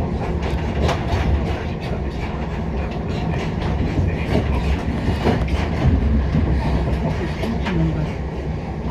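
Passenger train running along the line, heard from inside the carriage: a steady rumble of wheels on the rails with frequent short clicks and knocks.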